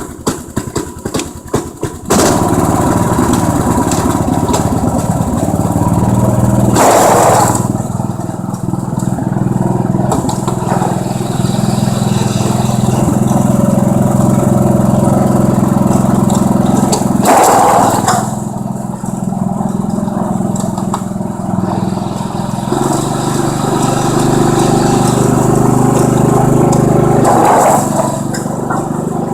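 Riding lawn tractor's small engine running as the tractor is driven in sixth gear. It gets suddenly louder about two seconds in, and its note shifts in pitch a few times along the way.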